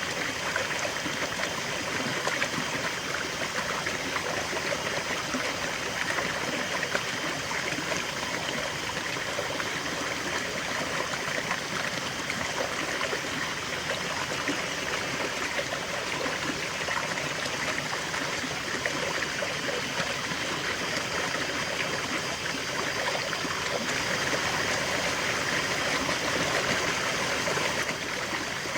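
River flowing: a steady, even rush of running water with a light trickle.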